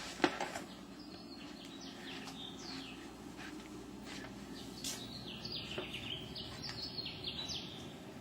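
A dawn chorus of birds singing, fairly faint: many short chirps and quick falling whistled notes, busier in the second half.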